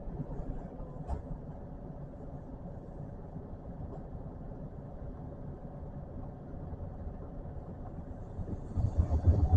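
Electric commuter train running along the track, heard from on board: a steady low rumble with a faint steady hum, a single click about a second in, and a louder, thumping rumble near the end.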